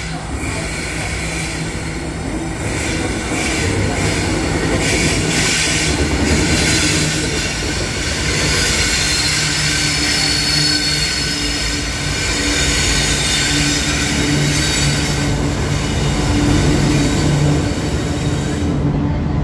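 Diesel freight locomotives passing close by at speed, engines running with a steady low drone, followed by a string of hopper wagons rolling past with wheel rumble and some high wheel squeal.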